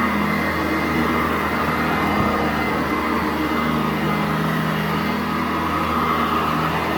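Sanitaire SC899 commercial upright vacuum cleaner running steadily on carpet, a motor hum under a rushing airflow that swells and eases slightly as it is worked over the floor.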